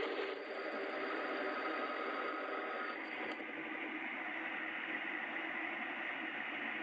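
A workshop power tool running steadily with a hissing whir, changing slightly in tone about three seconds in.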